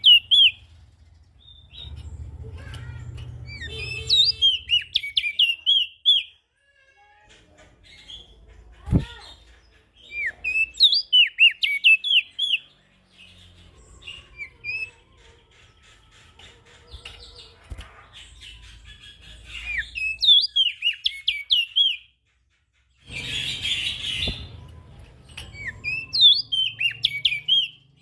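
Prenjak daun songbird singing in repeated bursts of rapid, high chirping notes, one phrase every few seconds with short pauses between. A brief noisy rush breaks in a little before the last phrase.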